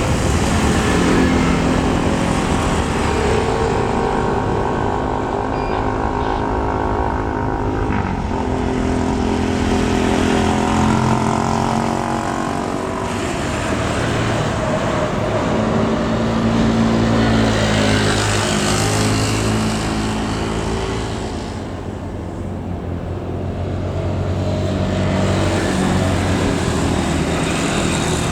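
Several motor engines running at once, their pitch rising and falling as they pass, with a broader rushing swell partway through.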